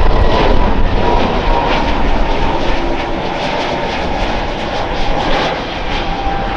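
Jet airliner's engines running loud, with a faint high whine that slowly falls in pitch as the sound eases slightly.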